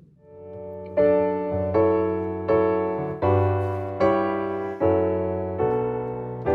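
Piano playing a slow hymn introduction: chords struck about every three quarters of a second, each left to ring and fade, after a soft swell at the start.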